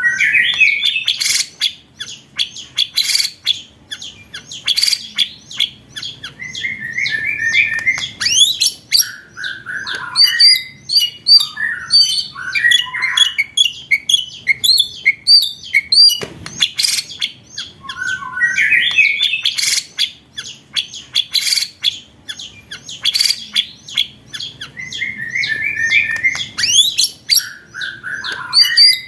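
Recorded songbird song: a dense run of sharp chips, rising whistles and fast trilled rolls, with the same passage repeating after about eighteen seconds. It is a looped masteran track of rapid-fire song, played to train competition birds.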